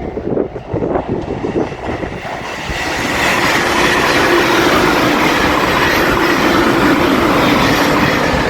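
JR Shikoku 8000 series limited express electric train passing close by: wheels clacking over rail joints, then, about three seconds in, a louder steady rush as the cars go past.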